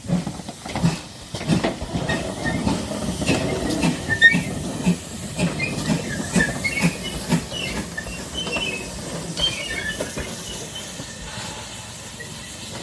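Steam train running: regular chuffs about two a second over a steady hiss and clicking. The chuffs fade out after about seven seconds.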